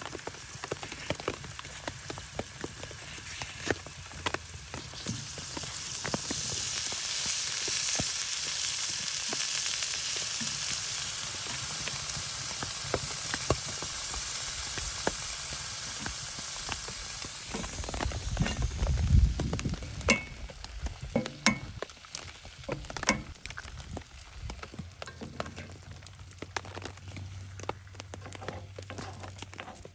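Food frying in a skillet on a wood stove. The sizzle swells about five seconds in and eases off after about eighteen seconds, with scattered clicks and taps of a utensil stirring in the pan and a low thump near the twenty-second mark.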